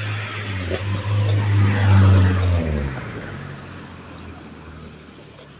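A motor vehicle driving past: its engine hum grows louder for about two seconds, then drops in pitch and fades away as it goes by.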